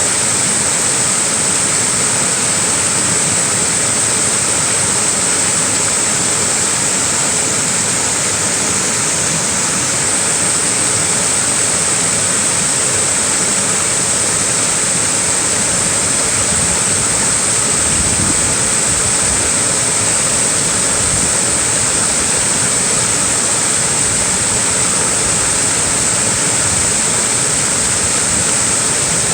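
Small waterfall, water pouring and splashing in a steady, unbroken rush with a bright hiss.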